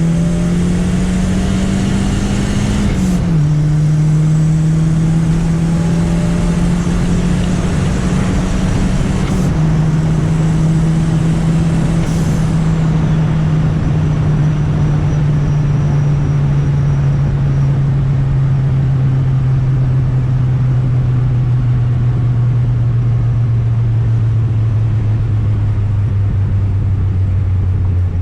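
Turbocharged Chevrolet Chevette's four-cylinder engine under way, its pitch climbing and dropping sharply at two gear changes, about three seconds in and again near ten seconds. After that it runs steadily with the pitch slowly sinking, over road and wind noise.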